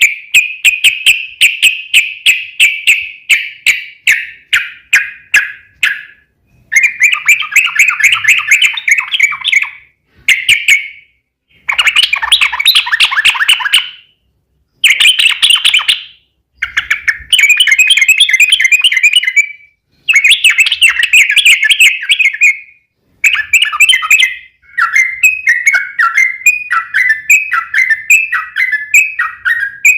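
Yellow-vented bulbul (trucuk) singing a long bubbling chatter: fast runs of repeated notes in phrases of one to four seconds, broken by short pauses. It ends in a string of short falling slurred notes.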